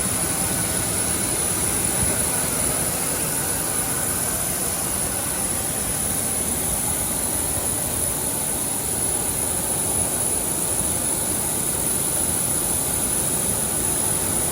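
Aircraft turbine running steadily: an even rush of noise with a thin, high, steady whine on top.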